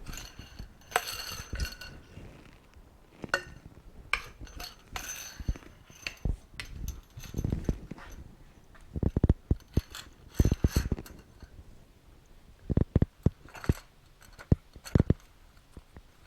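Irregular metal clinks and knocks as a motorcycle fork spring and fork tube are handled and fitted together, a few of them ringing briefly.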